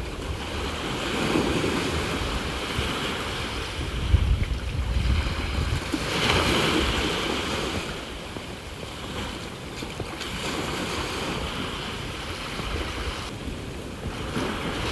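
Sea waves breaking and washing ashore in repeated swells that rise and fall every few seconds, with wind buffeting the phone's microphone in gusts, strongest about four seconds in.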